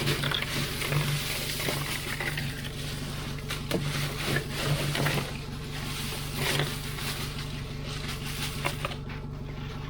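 Boat engine running steadily at idle while being flushed with fresh water, with water splashing and gushing over the steady hum.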